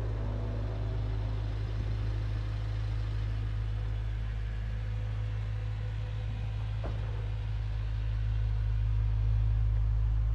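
A vehicle engine idling with a steady low hum, growing louder near the end. There is a brief pitched sound in the first seconds and a single short click about seven seconds in.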